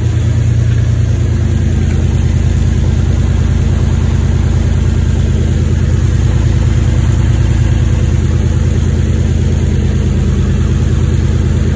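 Infiniti G35's VQ35DE V6, freshly fitted with a Rev9 single-turbo kit, idling steadily on its first run after the install, with no revving.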